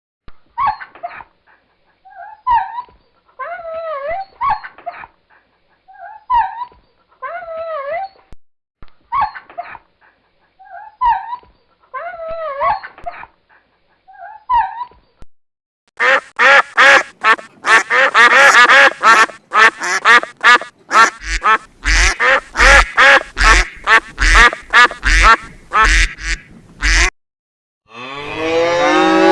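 Animal calls. First come short, pitched calls in small clusters every second or two. Then, from about halfway in, about eleven seconds of loud, rapid, repeated calls, which cut off suddenly.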